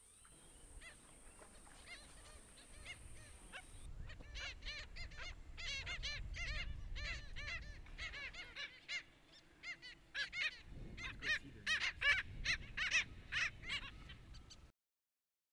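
Birds calling: short, repeated calls, several a second, in two bouts with the second louder, over a low rumble. The sound cuts off suddenly near the end.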